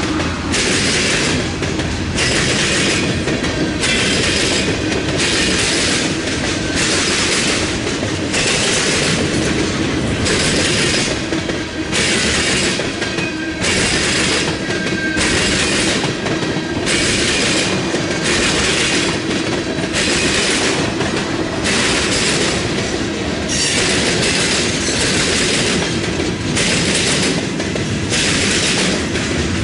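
Freight train cars rolling past, the wheels clattering in a steady repeating rhythm of a little over one burst per second over a constant rumble.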